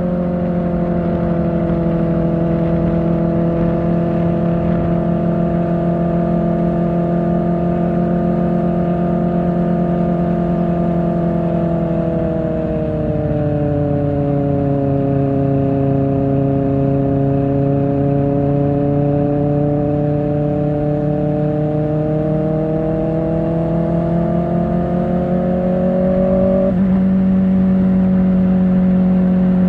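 Kawasaki Ninja ZX-4R inline-four engine running through an Akrapovic exhaust while riding at a steady cruise. The pitch eases down about halfway through, climbs slowly, then drops suddenly near the end.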